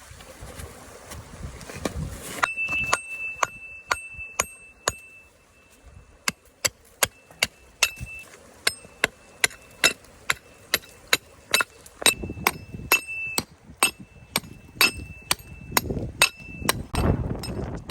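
A long run of sharp metallic strikes, about two a second, each leaving a short high ring, like hammering on metal. It starts a couple of seconds in and stops shortly before the end, with gusts of wind noise on the microphone near the start and the end.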